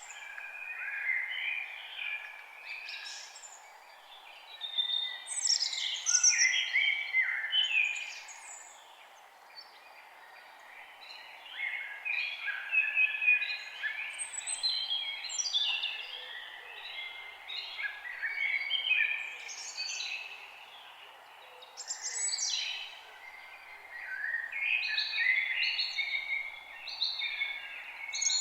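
Several songbirds singing and chirping together in overlapping bursts of quick, high trills and whistles, with a short lull about nine seconds in, over a faint steady background hiss.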